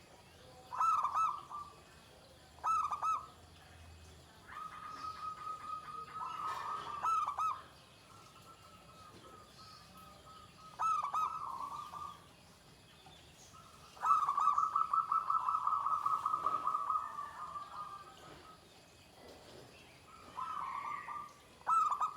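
Zebra dove (perkutut) cooing in repeated phrases of quick rolling notes held at one pitch: several short phrases and two longer rapid trills of about three seconds each.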